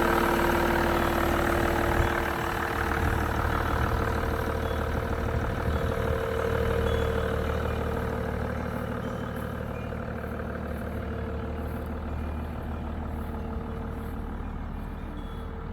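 Mercedes-Benz E320 CDI diesel engine idling steadily in freezing weather after a cold start, with a single click about two seconds in. The sound grows gradually quieter.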